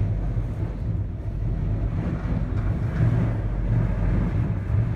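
Steady low rumble inside a gondola cabin riding its cable in high wind, with wind buffeting the cabin and microphone.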